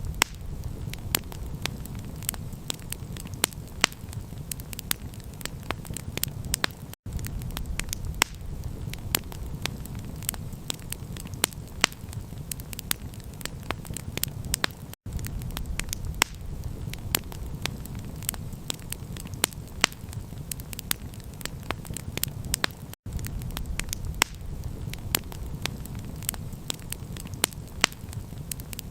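Crackling campfire: frequent sharp pops and crackles over a steady low rumble. The sound cuts out for an instant about every eight seconds, like a short recording looped.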